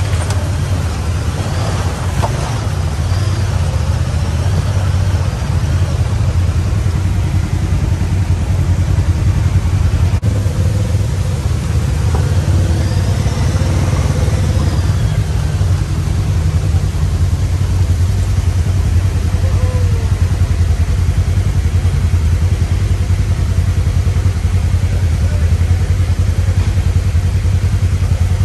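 Honda Pioneer 1000 side-by-side's parallel-twin engine running at a steady pace on a trail, a loud low drone without big revs or pauses.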